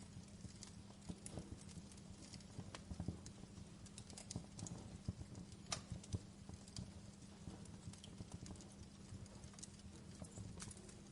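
Wood fire crackling in a fireplace: irregular sharp pops and snaps, with a louder pop about six seconds in, over a low rumble of burning and a faint steady hum.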